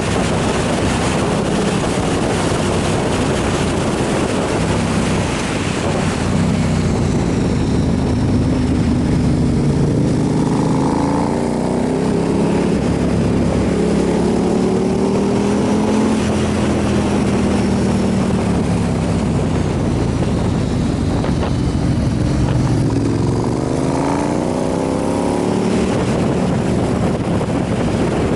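Motorcycle engine running under way, with heavy wind noise on the microphone; the engine's pitch rises and falls a few times with throttle and speed changes.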